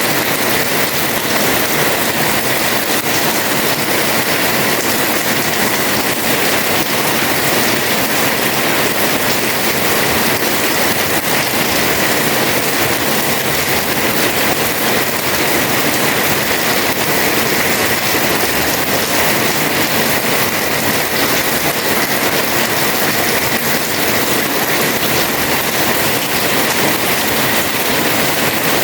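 Heavy rain pouring steadily onto a house terrace, a dense even hiss with no breaks.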